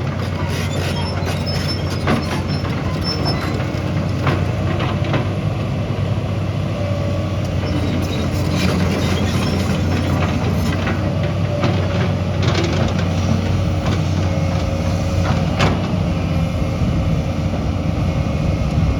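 Diesel engine of a heavy earthmoving machine running steadily, with scattered clanks and knocks through it.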